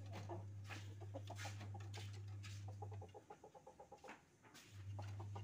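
Birds calling faintly, over a low steady hum that cuts out about three seconds in and comes back near the end.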